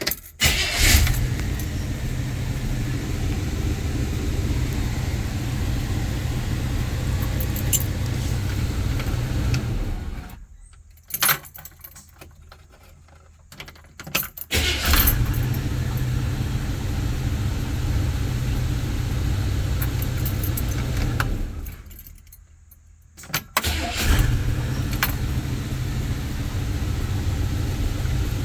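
Chevrolet 327 small-block V8 started cold: it catches and runs with a deep steady rumble, cuts out twice and is restarted each time with a burst of revs. Light clicks and jingling fill the quiet gaps.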